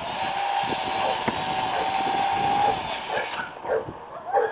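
Chainsaw running at high revs with a steady whine, cutting off about three seconds in. A small dog yaps several times near the end.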